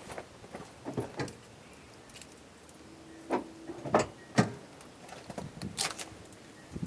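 A handful of sharp clicks and knocks, about five spread over several seconds, from a car's door and keys being handled before the engine is started.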